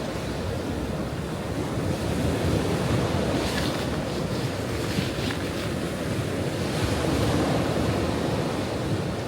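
Ocean waves breaking and washing on a shore in a continuous surge, swelling twice with a hiss of foam, with some wind rumble on the microphone.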